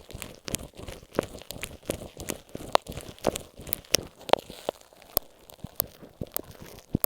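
Masking tape stuck over an earphone microphone being handled close up: irregular crackling clicks and taps, several a second.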